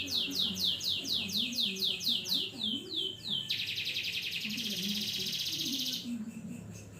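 Domestic canary singing: a fast run of high downward-sweeping notes, about seven a second. About three and a half seconds in, it switches to a loud rolling trill lasting some two and a half seconds, then softer notes near the end.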